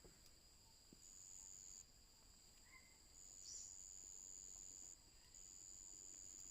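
Faint, steady high-pitched insect drone in the forest, swelling louder for stretches about a second in, from about three seconds in, and again near the end. A couple of faint bird chirps come through.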